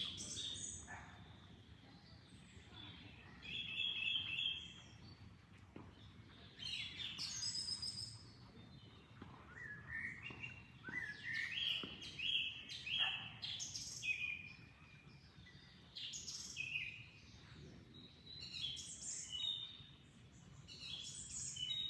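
Several songbirds chirping and singing in short, repeated phrases, some trilled and some stepping up in pitch, over a faint steady low rush of flowing water.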